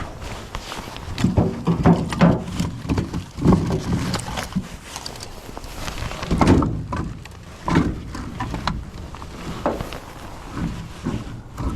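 Split firewood pieces being handled and dropped, knocking against each other in irregular wooden clunks, several a second at times, the loudest about a second in, around three and a half seconds in and around six and a half seconds in.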